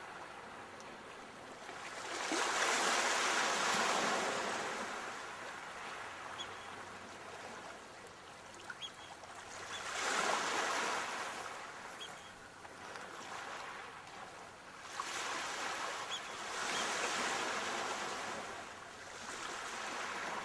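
Sea waves breaking and washing up a shore. The surf swells and fades three times, each rush lasting a few seconds.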